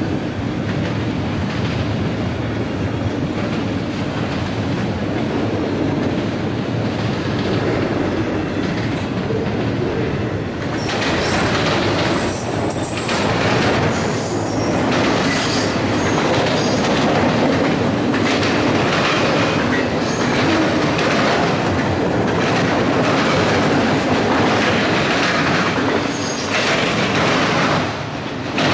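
Freight train of enclosed autorack cars rolling past close by, its wheels clacking over the rails with a steady rumble. From about a third of the way in, high-pitched wheel squeal comes in over the rumble and goes on to the end.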